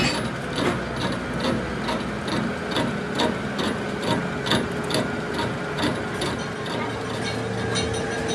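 Regular metal knocks, about three a second, typical of a hammer striking metal. A steady faint machine hum runs underneath.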